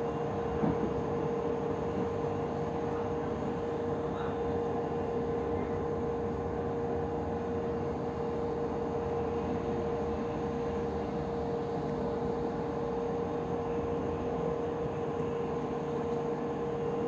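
Interior of a moving commuter train: steady running rumble with a constant high hum over it.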